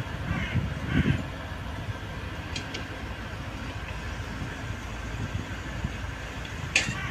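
A train at a station platform running steadily with a low engine rumble, with a few short knocks or clanks, one of them near the end.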